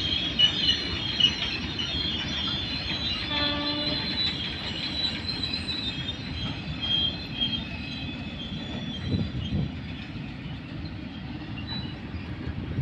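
Train hauled by an electric locomotive running past with a steady rumble and high wheel squeal, and one short horn note about three and a half seconds in.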